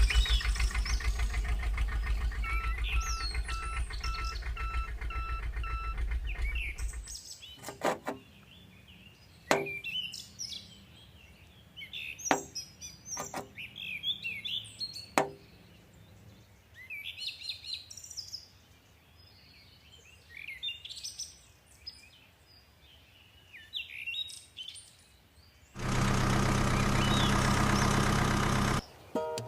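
An engine running with a rapid steady pulse, which stops about seven seconds in. Birds then chirp, with a few sharp clicks among them, and near the end a loud burst of noise lasts about three seconds.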